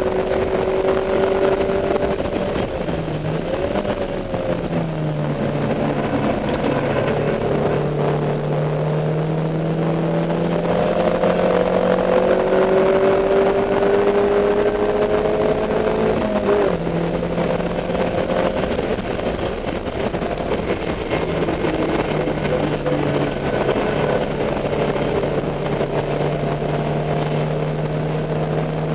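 Dodge Neon race car's four-cylinder engine at high revs, heard from onboard at racing speed. The pitch climbs slowly and dips as the car shifts and takes corners, with a sharp change in pitch about sixteen seconds in.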